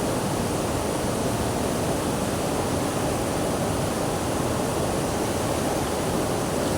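Steady rushing of flowing water, an even, unchanging noise with most of its weight in the lower-middle range.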